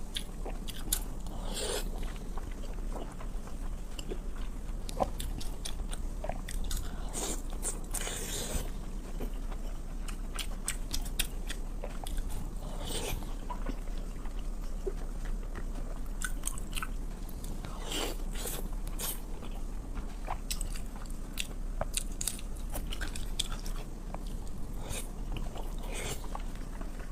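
A person eating close to the microphone: chewing and biting, with irregular wet mouth clicks and smacks.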